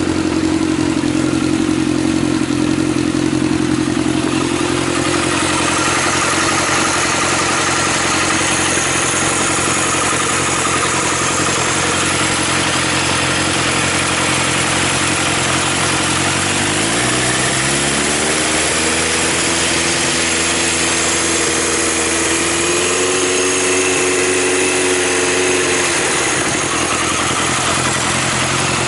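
Yamaha XJR1300's air-cooled inline-four idling steadily through an aftermarket Wyvern exhaust. About halfway through, the revs rise and are held up for several seconds, climb a little more, then drop back to idle.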